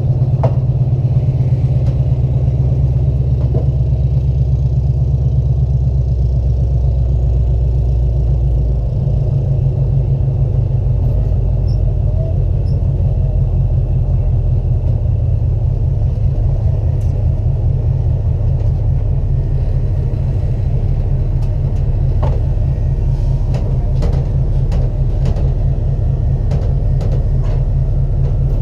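Race car engine running hard, a loud, deep, steady rumble; its low note shifts about nine seconds in.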